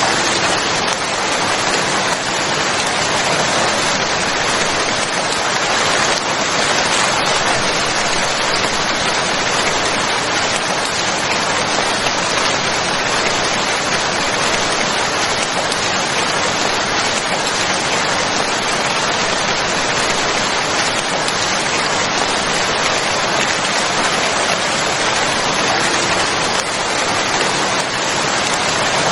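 Steady heavy rainfall: an even, unbroken hiss of rain falling on surfaces.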